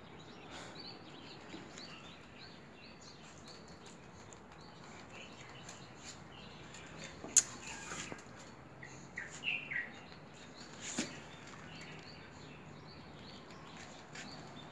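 Faint, sparse bird chirps in the background, with a sharp click about seven seconds in and a soft tap about eleven seconds in.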